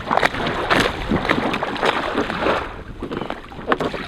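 Water splashing and sloshing around an inflatable kayak in irregular strokes, with wind rumbling on the microphone.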